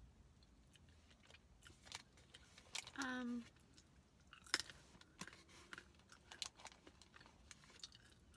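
Close-up mouth sounds of a person eating: faint chewing with scattered small clicks, a brief hum from the voice about three seconds in, and a sharp click about a second later as food goes into the mouth.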